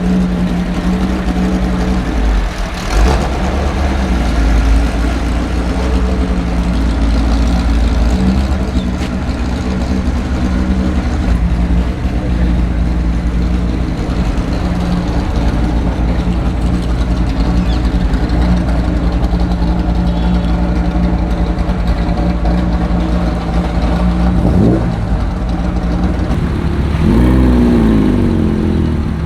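A car engine running steadily at idle close by, with its revs rising briefly near the end.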